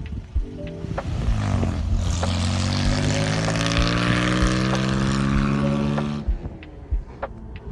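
1941 Chevy pickup engine revving: its pitch climbs over about a second, then holds high and loud for about four seconds before cutting off abruptly. Faint background music with a regular beat is heard at the start and near the end.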